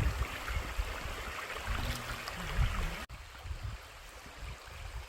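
Valley stream water rushing over rocks, a steady rush with low rumble underneath; it drops suddenly to a quieter level about three seconds in.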